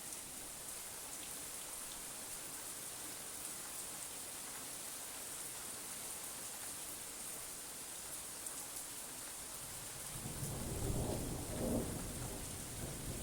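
Steady rain falling, an even hiss of drops. About ten seconds in, a low roll of thunder rumbles in, swelling twice before it trails off into a continuing rumble.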